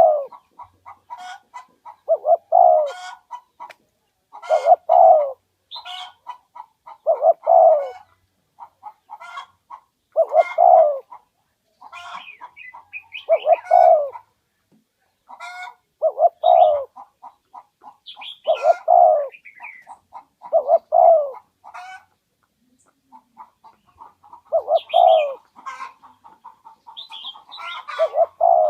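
Spotted dove giving its calling song: a loud, repeated cooing phrase about every two to three seconds, with one longer pause past the middle. Faint short chirps sound between the phrases.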